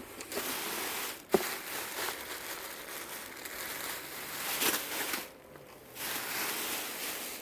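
Crinkling and rustling as dresses and their packaging are handled and pulled from a box, with a sharp click about a second in and a short pause near the end.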